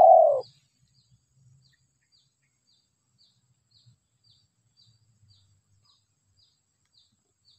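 Faint, short high chirps repeating evenly about twice a second, from a small bird calling in the surroundings. In the first half-second a louder, lower, falling call or voice dies away.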